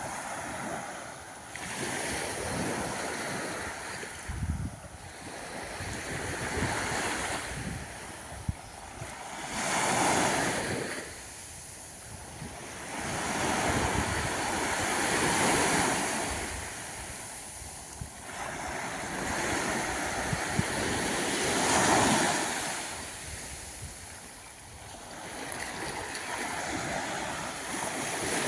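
Small sea waves breaking and washing up a sandy beach, the surf swelling and falling back every few seconds.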